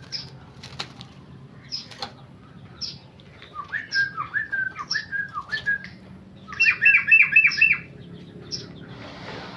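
Yellow-vented bulbul calling with short sharp chirps, breaking into a run of song notes about three and a half seconds in and a louder, faster phrase around seven seconds. A brief rustle comes near the end.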